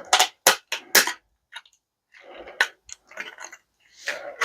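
Sharp clacks and crunching from a microwave's circuit board being handled and worked at by hand: four hard snaps close together in the first second, then lighter clicks and rustling.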